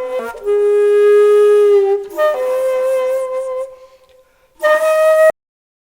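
Background music: a solo flute-like wind instrument playing slow, long held notes, the last one cut off abruptly about five seconds in, followed by silence.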